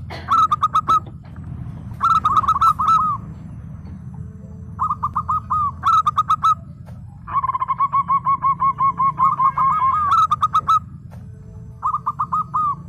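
Zebra dove (local perkutut) calling in six bursts of rapid repeated cooing notes, the longest a run of about three seconds in the middle, over a steady low hum.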